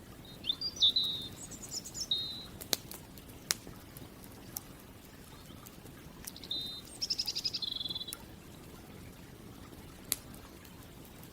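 A small songbird sings two short, high, trilling phrases, one just after the start and one about six seconds in. A campfire gives a few sharp crackles and pops in between.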